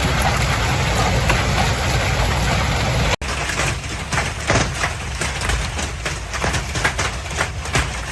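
Hail falling hard: a dense, steady roar of stones striking. About three seconds in there is a sudden cut, then separate hailstones hitting with sharp, irregular knocks over a low rumble.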